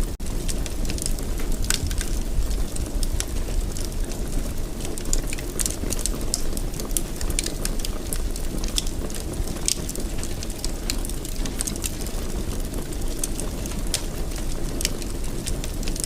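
Wood fire burning in a fireplace: frequent small sharp crackles and pops over a steady low rumble.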